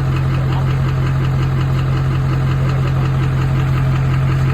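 LB7 Duramax 6.6-litre V8 turbo-diesel idling steadily, with a fast, even diesel clatter over a loud low hum.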